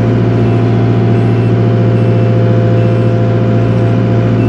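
Takeuchi TL240 tracked skid steer's engine running steadily under throttle, heard from inside the operator's cab: a loud, even drone with a strong low hum.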